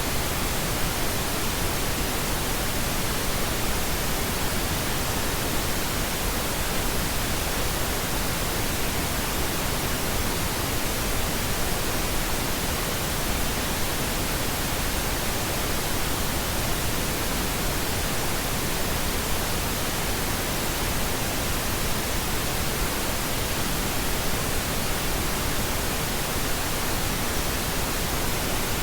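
Pink noise: a steady, unchanging hiss with an even spread across all pitches, with no events or changes.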